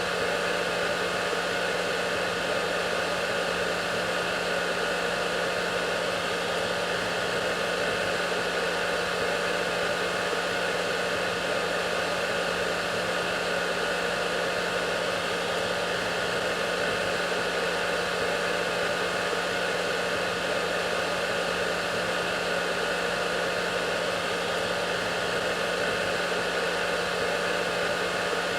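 Hair dryer running steadily, a constant rush of blown air with an even motor hum underneath.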